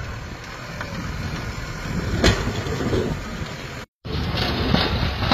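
Steady rumbling outdoor noise, heaviest in the low end, like wind on the microphone or passing traffic. It cuts out abruptly just before four seconds in, then comes back louder.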